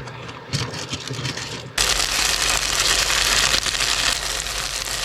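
Pot stickers frying in oil and water in a pan on an induction cooktop: scattered crackling, then about two seconds in a loud, steady sizzle sets in suddenly.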